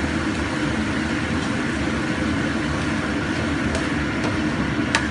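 Diced chicken and mushroom filling sizzling as it is stir-fried with a spatula in a nonstick pan, a steady hiss throughout, with a light spatula click near the end.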